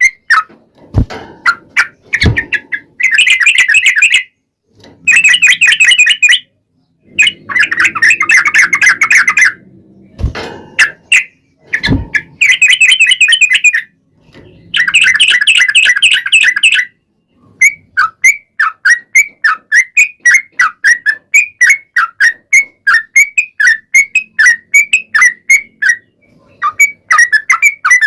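Yellow-vented bulbul (trucukan) singing: loud bursts of fast chattering song broken by a few sharp knocks, then, past the middle, a long run of quick repeated notes, several a second.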